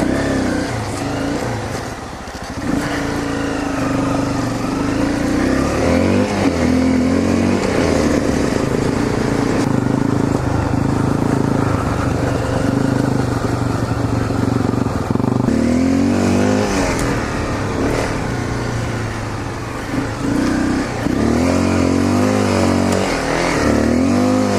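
Single-cylinder four-stroke engine of a 2013 Honda CRF250L dirt bike riding a trail, the revs repeatedly rising and falling as the throttle is opened and closed. There are short drops in engine sound at about 2 s and 20 s, and sharp rev rises at about 6, 16 and 23 s.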